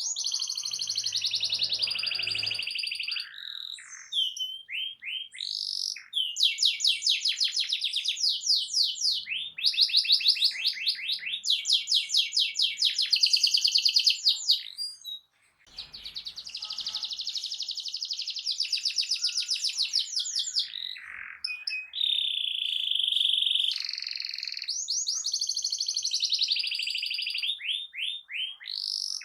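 Canary singing a loud song of fast trilled phrases, each a rapid run of repeated high notes lasting a second or two, with short breaks between phrases and a brief dropout about halfway through. It is the kind of loud, vigorous canary song played as a lure to set another canary singing in reply.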